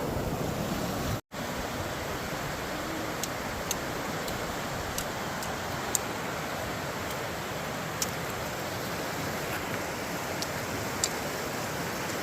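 Steady rushing of river water, with a few faint light ticks scattered through it.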